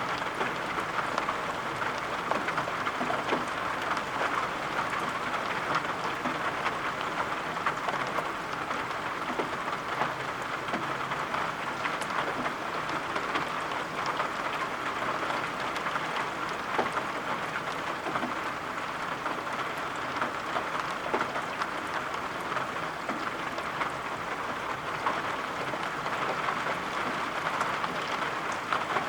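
Steady rain falling, an even hiss with many scattered sharp ticks of drops throughout.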